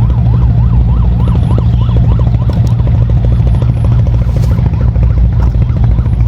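Loud, steady low engine drone, with a warbling siren-like wail rising and falling about three times a second that fades out about halfway through.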